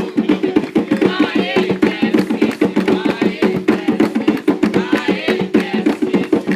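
Atabaque hand drums beating a fast, steady rhythm for an Umbanda ponto, with a group of voices singing over it.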